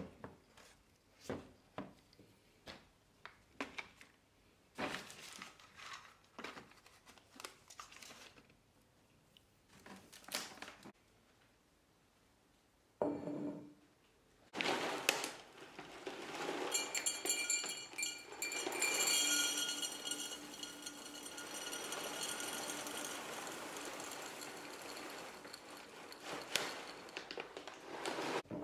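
Household objects being handled, with a string of short knocks and clinks, then from about halfway through a steady rushing noise with faint high tones.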